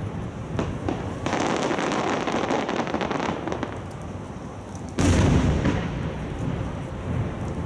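Aerial fireworks display heard from about half a kilometre away: a couple of seconds of dense crackling from about a second in, then a loud shell burst boom about five seconds in that rumbles away.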